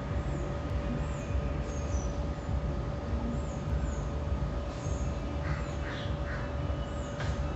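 A few harsh bird calls in the second half, over a steady low rumble with a constant hum and a thin high chirp repeating about every two-thirds of a second.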